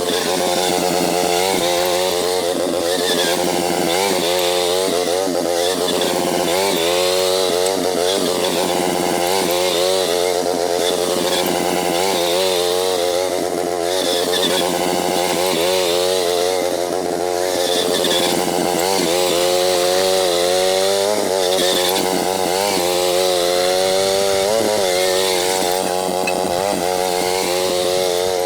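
MTD garden tractor's small engine running steadily, its pitch rising and falling again and again as the load changes.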